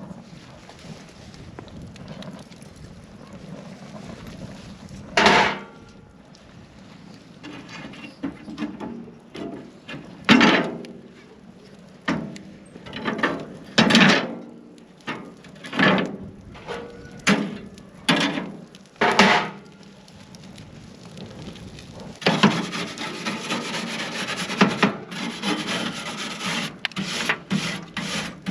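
Scraping or rasping strokes against wood, spaced a second or two apart at first, then a quicker continuous rasping near the end.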